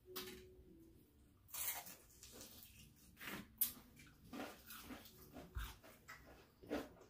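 Mouth sounds of eating crispy fried chicken close to the microphone: irregular crunches, chewing and lip smacks, with a dull bump about five and a half seconds in.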